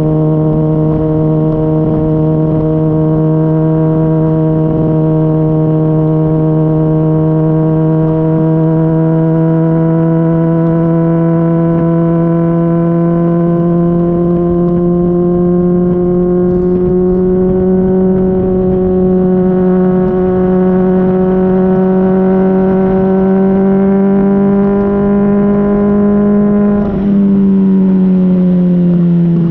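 Honda CBR600RR's inline-four through a Yoshimura RS-5 exhaust, recorded from just above the muffler while riding: a steady exhaust note whose pitch climbs slowly, then, near the end, a brief dip in loudness after which the pitch falls.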